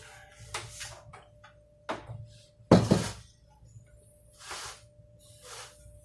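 Objects being handled: a series of light knocks and clinks, with one louder thump about three seconds in.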